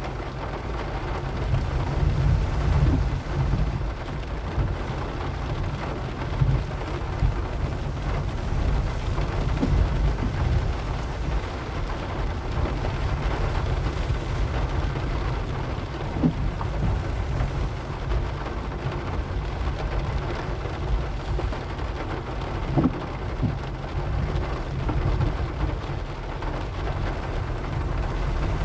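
Steady rain on a moving car, over a continuous low rumble from the car and the road, with a few short knocks.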